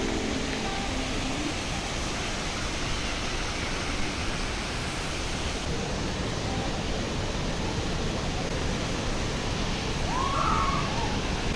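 Steady rushing noise, even throughout, with a short curving call about ten seconds in.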